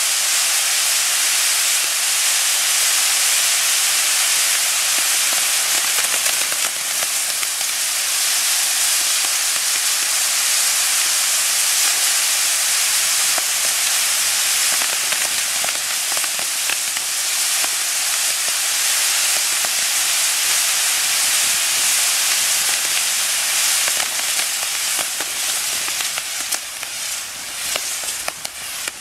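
Maltese ground fireworks: spinning firework wheels driven by fountains, giving a loud, steady rushing hiss. Near the end the hiss turns uneven and fades, with scattered crackling pops.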